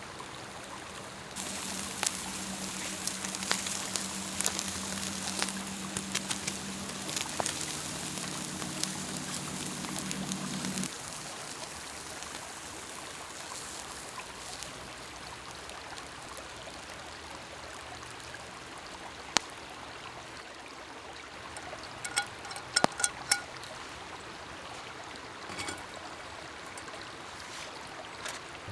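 Campfire crackling and hissing with food grilling over it, full of sharp pops, with a low steady hum under it. Both stop abruptly about a third of the way in and give way to a softer steady hiss with scattered crackles. Near the end there is a quick cluster of light metallic clinks.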